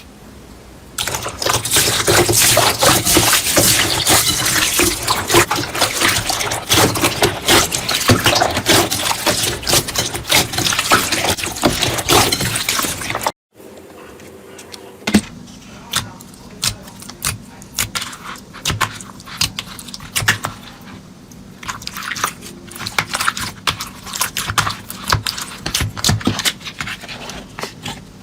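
Slime being squished and kneaded by hand: a dense run of wet crackling and popping, which cuts off suddenly about halfway through and gives way to quieter, scattered pops and clicks.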